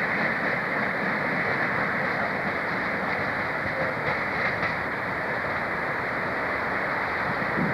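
A train moving on the rails, a steady even noise with no distinct beats.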